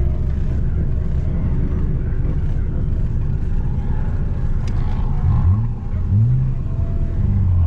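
Manual Nissan Altima's engine running with a steady low drone, then revved in two quick rising blips about five and six seconds in.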